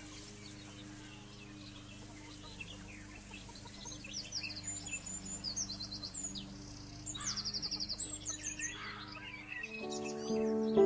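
Birds chirping in quick high trilled runs over soft, sustained background music; the music swells louder near the end.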